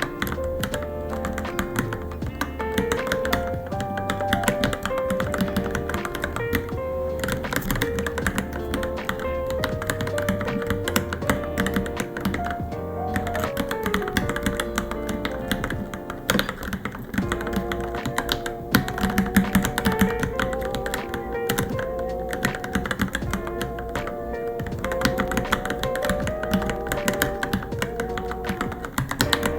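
Typing on a Varmilo Minilo mechanical keyboard: rapid, irregular key clicks throughout, under background music with a melody.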